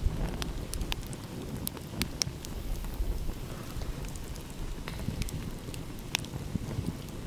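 Wood campfire crackling, with scattered sharp pops and snaps a few times a second over a steady low rumble.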